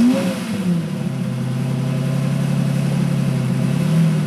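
Supercar engine just after starting: the start-up flare falls away in the first second and the engine settles into a steady idle, with a slight blip about four seconds in.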